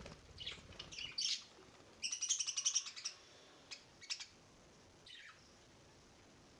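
Small caged pet birds chirping: scattered short chirps, a dense burst of chatter about two seconds in, a few more chirps and a falling call near the end, then quiet.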